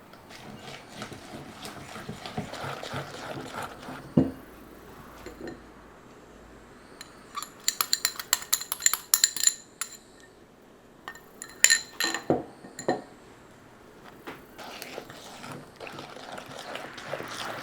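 Kitchenware clinking: a single knock about four seconds in, then two flurries of quick, ringing clinks of metal and glass, one around eight seconds in and another around twelve seconds.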